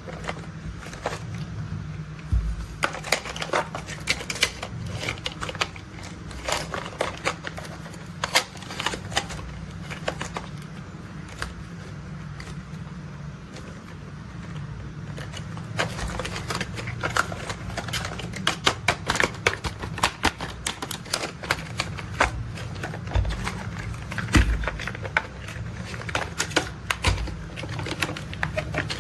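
Rapid, irregular clicking and clattering of plastic toy construction-vehicle parts being handled, over a steady low hum.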